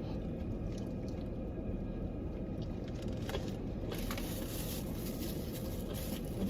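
Faint wet chewing and eating sounds from people eating chicken wings, with a few small soft clicks, over a steady low rumble.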